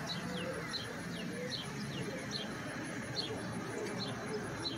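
A small bird chirping over and over, short downward-sliding chirps about twice a second, over a low steady background hum.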